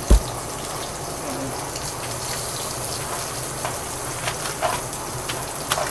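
Steady hiss of water being poured into the bottom of a roasting pan, with a sharp knock just after the start and a few light clicks later.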